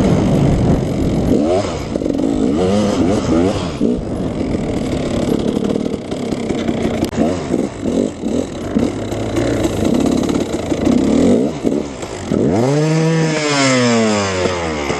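KTM 300 two-stroke dirt bike engine running with the throttle blipped on and off, its pitch wavering up and down. Near the end it revs hard once, rising and then falling back.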